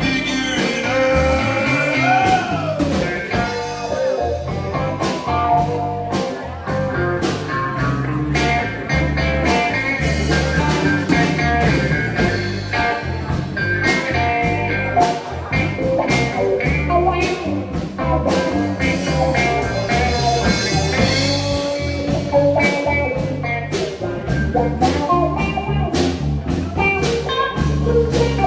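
A band playing a blues-rock song with guitar, a steady drum beat and a singing voice.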